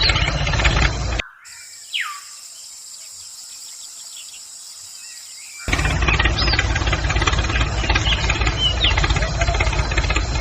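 A motor running steadily with a fast rhythmic chatter. It cuts off suddenly about a second in and starts again just past halfway. In the quieter gap a bird gives a falling whistle, and bird chirps sound over the motor.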